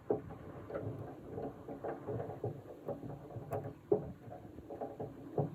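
Screws being turned into a pickup's tail light housing: irregular small mechanical clicks and rattles, with a sharper knock about four seconds in.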